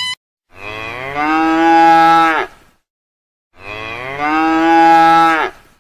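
A cow mooing twice: two long, loud calls of about two seconds each, alike in shape, with a pause of about a second between them.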